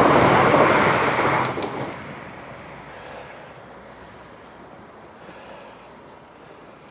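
Train passing close by at a station: a loud rushing rumble that fades away after about two seconds, with a couple of sharp clicks as it goes.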